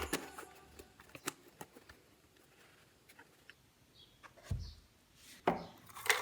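Scattered light clicks and taps of small parts being handled on a work surface, with two duller knocks about four and a half and five and a half seconds in.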